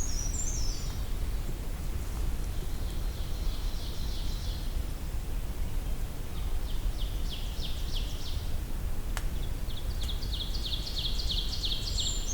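Brown creeper singing its short, high, thin jumble of notes near the start and again at the end. In between, a lower run of quick, evenly repeated notes is sung three times, and there is a single sharp click just after the middle.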